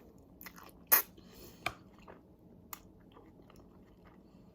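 A person chewing food close to the microphone, with a few sharp crunchy clicks; the loudest comes about a second in.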